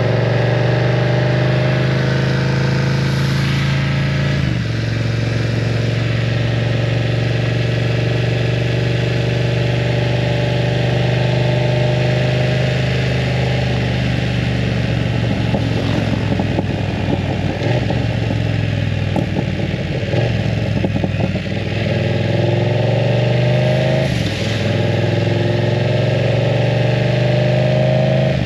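BMW F900 R parallel-twin engine running through an aftermarket full exhaust while riding, the revs climbing and stepping through gear changes, with a rougher uneven stretch in the middle as the throttle comes off.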